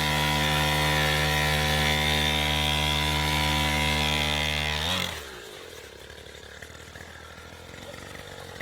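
Mini 50cc petrol dirt bike's small two-stroke engine running at a steady speed, then switched off about five seconds in, its pitch sinking quickly as it stops.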